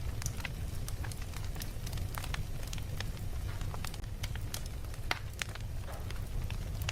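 Fire crackling: frequent irregular sharp pops and snaps over a steady low rumble.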